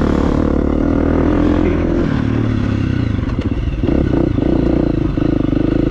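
Dirt bike engine running at low trail speed, its note wavering about two seconds in and settling again near four seconds, with some clattering from the bike.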